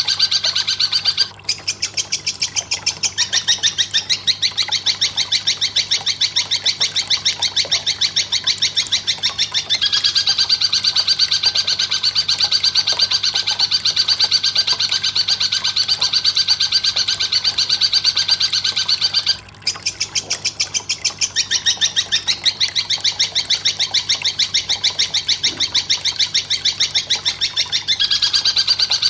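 Masteran recording for training songbirds: fast, evenly repeated high-pitched chattering calls, broken by two short pauses, about a second and a half in and about two-thirds of the way through.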